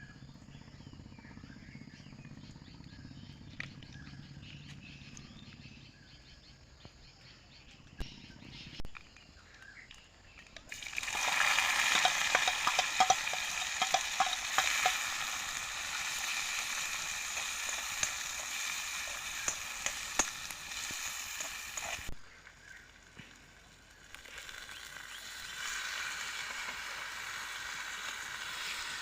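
Food frying in a pan, a dense sizzle with scattered crackles. It starts loudly about eleven seconds in, breaks off for a couple of seconds, then sizzles on more quietly.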